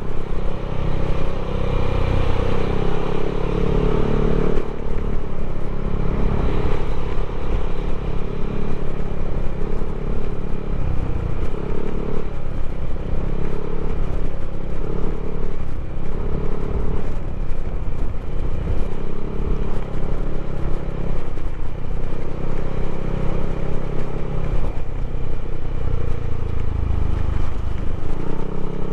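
Yamaha Aerox scooter's single-cylinder engine, bored and stroked up to 200cc, running with its revs rising and falling.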